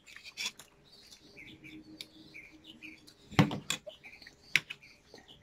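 Small birds chirping in the background, with short high chirps scattered throughout. A brief louder sound comes about three and a half seconds in.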